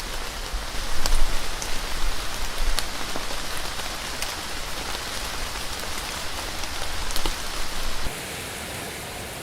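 Steady rain falling, with single drops ticking sharply on a surface. About eight seconds in the sound changes suddenly, becoming quieter with less low rumble.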